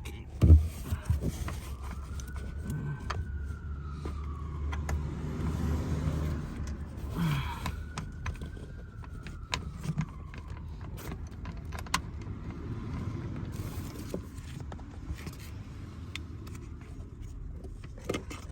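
Handling noise from working on a car's rear seatbelt mounting: a sharp knock about half a second in, then scattered metallic clicks and clinks of parts and tools. A faint tone rises and falls twice in the background.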